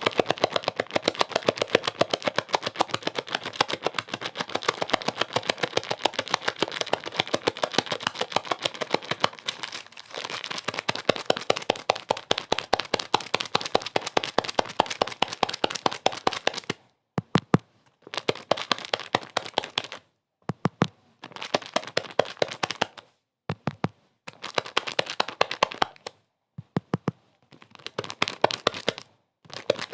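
Dense, rapid crackling clicks, steady at first; in the second half they break off suddenly several times into short silences and start again.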